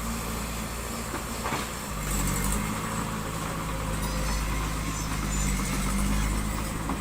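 Diesel engine of heavy construction machinery running, its hum swelling and easing with the load, with a short clank about one and a half seconds in.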